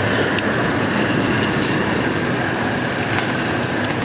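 2006 Dodge Dakota engine idling with a slight misfire, a minimal roughness the mechanic blames on cylinders 4 and 5 misfiring. A steady high-pitched tone runs over the engine sound.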